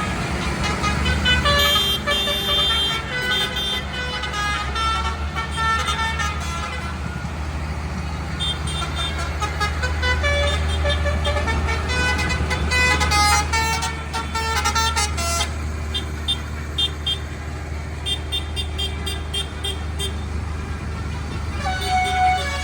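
Tractor engines running with a steady low drone while horns toot over them in many short repeated blasts.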